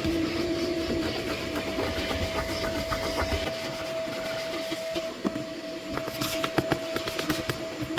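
A motor-driven machine running with a steady whine over a hiss, with scattered clicks and knocks.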